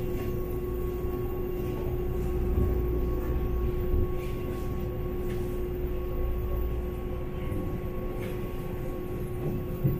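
A passenger train running, heard from aboard: a steady low rumble with a constant hum and a few light knocks.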